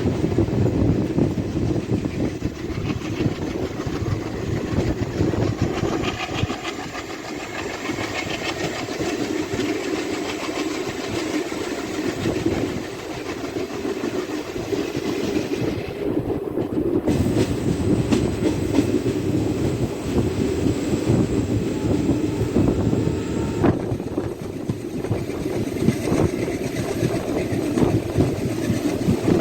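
A DEMU passenger train running along the track, with a steady rolling noise of wheels on rails.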